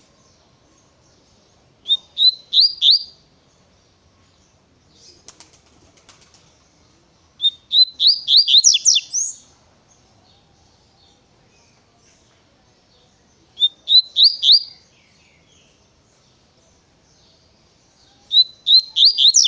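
Double-collared seedeater (coleiro) singing its 'tui-tui' song: four short phrases of quick, rising whistled notes, about five seconds apart, the second phrase the longest.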